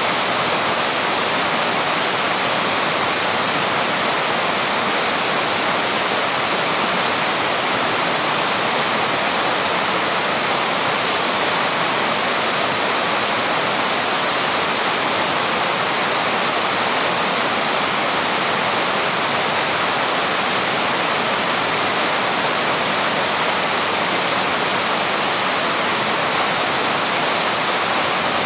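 Waterfall: water pouring and splashing over rock in a steady, unbroken rush.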